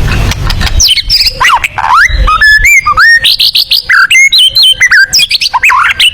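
White-rumped shama (murai batu) singing a fast run of loud, varied whistled notes that sweep up and down in pitch, starting about a second in.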